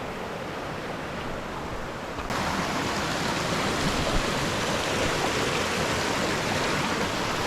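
Stream water rushing steadily, suddenly louder about two seconds in.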